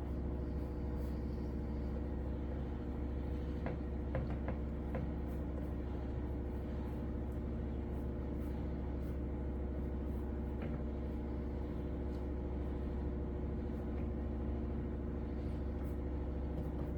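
Steady machine hum holding several fixed tones over a low rumble, with a few faint clicks about four seconds in and again near eleven seconds.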